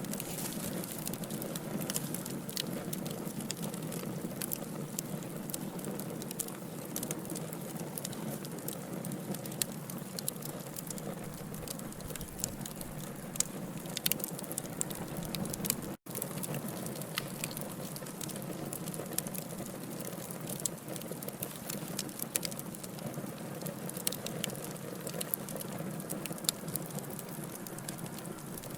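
Wood fire burning in a fireplace: logs crackling and popping in quick, irregular clicks over a steady low hiss. A split-second gap in the sound about halfway through.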